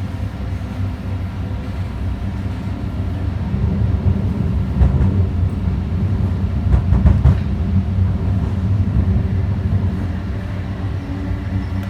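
Ottawa O-Train Line 1 light rail car (Alstom Citadis Spirit) running between stations: a steady low rumble of wheels on rail that grows louder after a few seconds, with a few clicks and knocks of the wheels over track around the middle.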